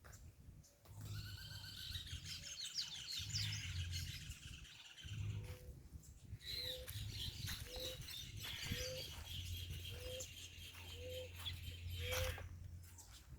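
Several birds chirping and trilling together, with a short low call repeated about once a second through the second half, over a low steady rumble.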